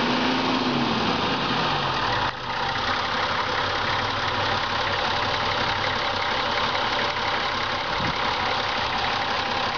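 Nissan Patrol 4x4's engine running: its revs fall away over the first couple of seconds, then it idles steadily, with a constant hiss over it.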